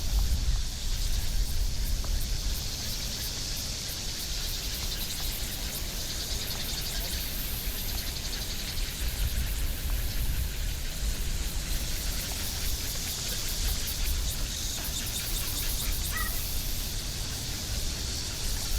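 Outdoor forest-path ambience: a steady high hiss like insects over a low rumble, with one short bird-like chirp near the end.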